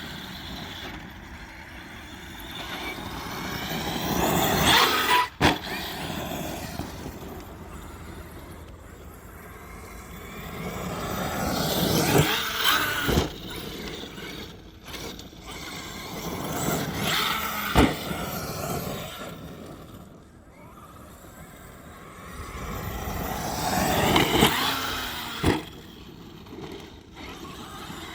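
Arrma Kraton 8S RC truck's brushless motor whining up and down as it is driven hard past and away, several times. Tyres scrabble on dirt, and sharp knocks are heard now and then.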